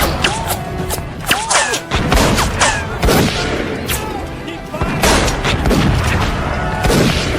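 Battle din of massed Civil War rifle-musket fire: shots crackling in ragged volleys with heavy booms throughout, over shouting voices.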